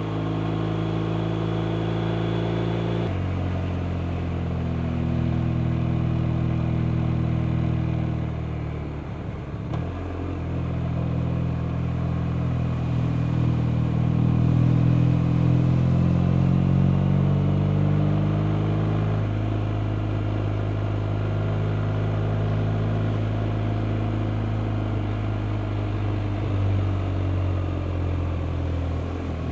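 BMW R 1250 RT motorcycle's boxer-twin engine running under way. Its note shifts about three seconds in, dips briefly around nine seconds, then climbs as it accelerates, loudest about halfway through, before easing back to a steady pull.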